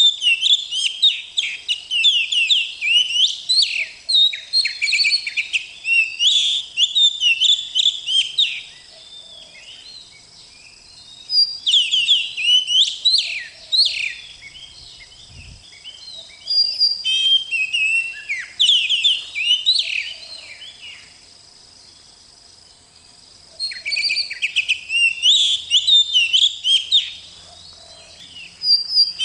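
Oriental magpie-robin (kacer) singing in bouts of fast, varied chirps and whistled notes, with pauses of two or three seconds between bouts. A faint steady high tone runs underneath.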